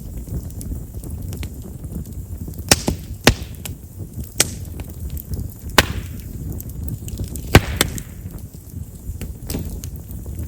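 Chestnut-wood campfire crackling, with half a dozen sharp pops, some trailed by a short hiss, over a steady low rumble. Chestnut's large vessels make it a wood known for popping in the fire.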